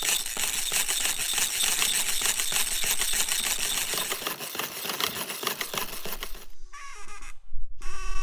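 Cream being beaten with a whisk in a bowl: fast, steady clicking and rattling that stops about six and a half seconds in. Two short high-pitched calls follow near the end.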